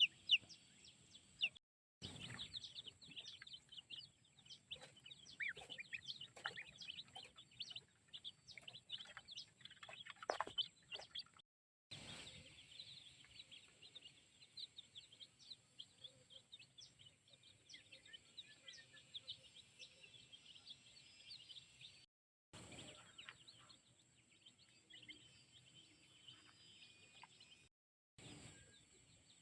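Birds, likely including poultry, chirping and peeping densely. The short high calls overlap continuously, with the sound cutting out briefly several times.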